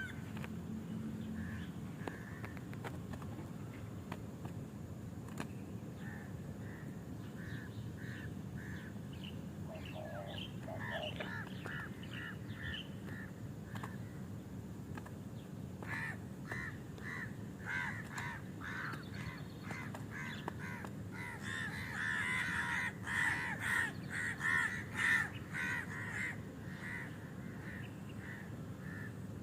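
A bird giving series of short, harsh, repeated calls. They grow denser and louder in the second half before tailing off near the end, over a steady low outdoor background.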